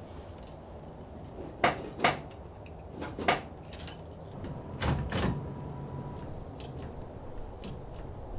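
Three pairs of sharp knocks and clatters, spaced a second or two apart, over a steady low background hum.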